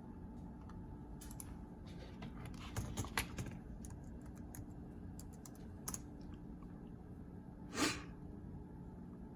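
Scattered clicks of typing on a computer keyboard, in short irregular runs, with one brief louder noise near the end.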